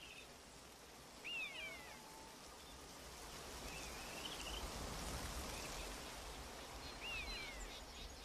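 Outdoor ambience: a bird gives short chirps of falling pitch three times, over a soft hiss that swells in the middle.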